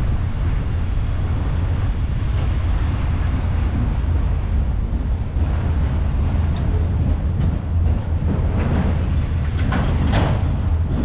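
Autorack freight cars rolling past on the rails: a steady low rumble of wheels and rattling car bodies, with a few sharper metallic bangs near the end.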